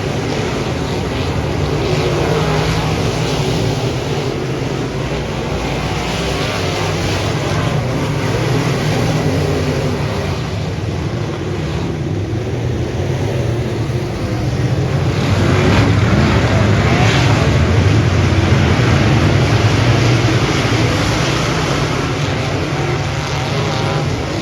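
Dirt-track modified race car engine running hard under a steady rumble of mechanical and track noise, getting louder for several seconds past the middle.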